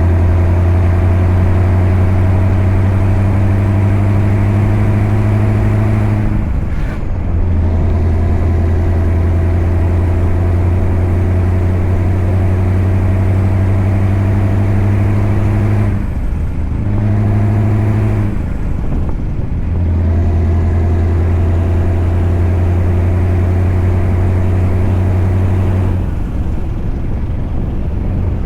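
Scania V8 truck engine running under load at a steady pitch. The engine note drops out briefly three times, and near the end it fades, leaving an even rushing road and wind noise.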